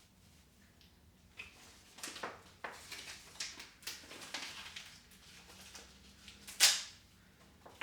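Irregular rustling and light handling noises, with one louder swish about two-thirds of the way in.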